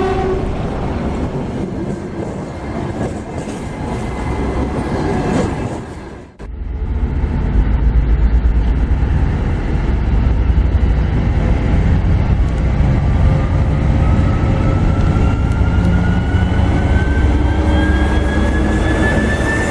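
TEP70 diesel locomotive on the move. About six seconds in the sound briefly drops out, then comes back as a louder, heavy engine beat under load, with a whine that rises steadily in pitch over the second half as the locomotive works up.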